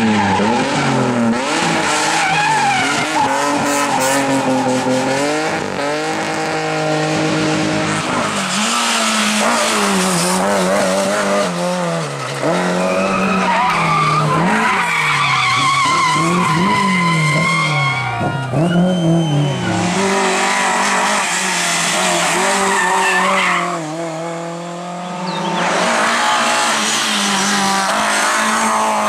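Rally car engine at high revs, its pitch repeatedly climbing and dropping through gear changes and lifts, with tyres squealing and skidding under hard driving. The sound eases briefly near the end, then picks up again.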